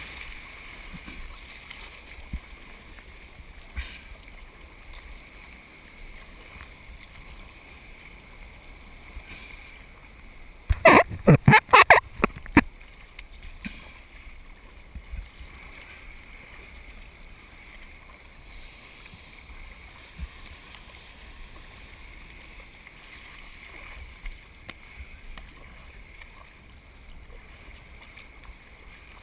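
Water washing around a surf kayak, with wind fluttering on the microphone. About eleven seconds in there is a quick cluster of loud knocks lasting under two seconds.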